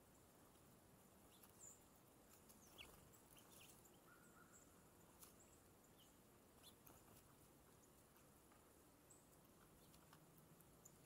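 Near silence: faint outdoor garden ambience with a few brief, high, faint bird chirps and small ticks scattered through.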